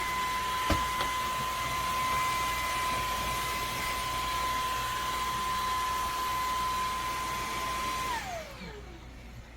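A LEVOIT LVAC-200 cordless stick vacuum motor runs with a steady high whine over the noise of its airflow. There is a sharp click about a second in. Near the end the vacuum is switched off, and the whine falls in pitch and fades as the motor spins down.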